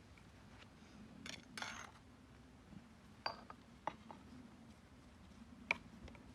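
Faint, scattered clinks and scrapes of utensils against dishes: two short scrapes in the first two seconds, then a few sharp clinks spaced a second or two apart.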